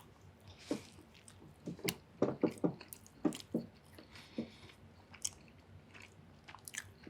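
Close-miked biting and chewing of a soft bread roll, with a run of short, moist chewing clicks in the middle, about three to four a second.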